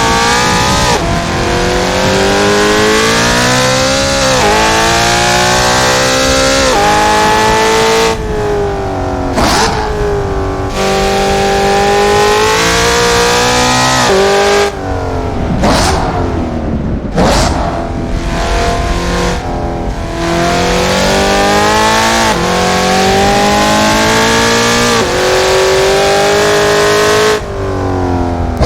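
Car engine being driven hard: its pitch climbs through the revs, drops sharply at each upshift, and several times sweeps quickly up and down as the driver brakes and blips the throttle on downshifts.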